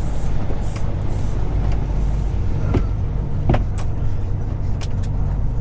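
Semi truck's diesel engine running with a steady low rumble, heard from inside the cab, with a few scattered clicks and knocks in the cab.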